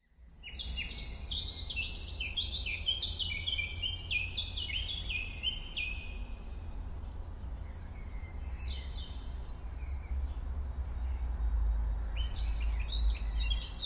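Songbirds chirping: rapid strings of short, falling chirps for the first five seconds, again briefly around nine seconds and near the end, over a steady low rumble.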